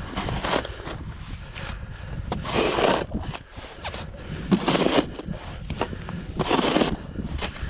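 Snow shovel scraping and scooping through fresh snow in a steady rhythm, a swish about every two seconds, with wind rumbling on the microphone.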